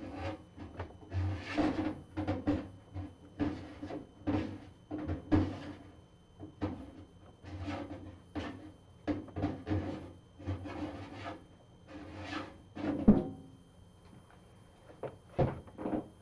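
Irregular rubbing and scraping with occasional knocks, as things are handled and moved about, with a sharper knock about thirteen seconds in.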